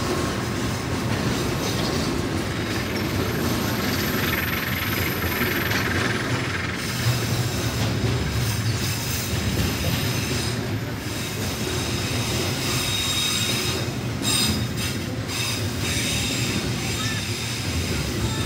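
Container freight train's flatcar wagons rolling past close by: a steady rumble and rattle of steel wheels on the rails, with a thin high wheel squeal now and then.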